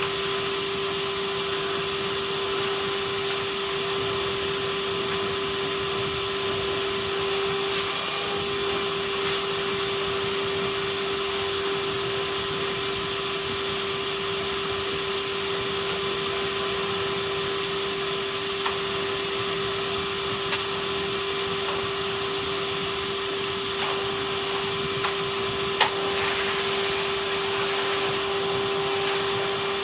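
Vacuum cleaner running steadily, a constant motor hum and hiss of suction, with a brief knock about eight seconds in and a sharp click near the end as the nozzle hits something.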